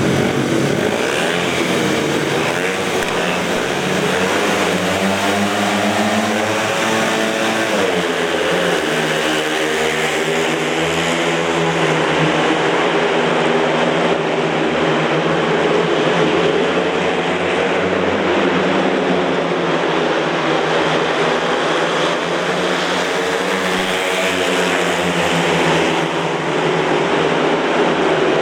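Four speedway motorcycles with 500 cc single-cylinder methanol engines racing around the track, the engine note rising and falling over and over as they accelerate and back off.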